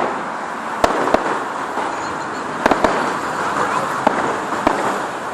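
Fireworks going off: about half a dozen sharp bangs and cracks at uneven intervals over a steady outdoor din.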